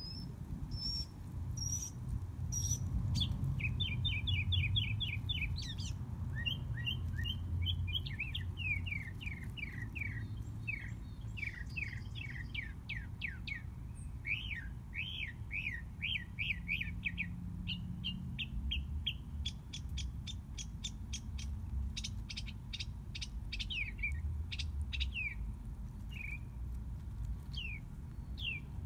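Songbirds chirping in quick series of short, falling notes, with several calling at once through the middle and a quick run of rapid chirps near the end.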